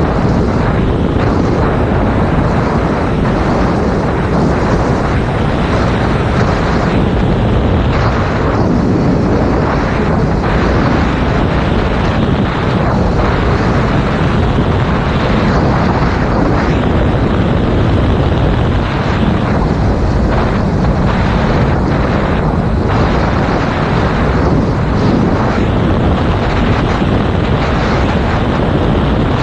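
Loud, steady wind noise rushing over a GoPro Hero 5 Black's microphone on a moving motorcycle, heaviest in the low range, drowning out most of the bike itself.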